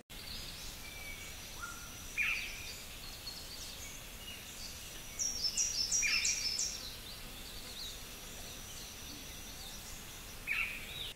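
Birds calling over an even outdoor background hiss: loud downward-sliding calls about two seconds in, around six seconds and near the end, and a quick run of five high descending notes in the middle. A thin steady high tone sounds for a couple of seconds at a time.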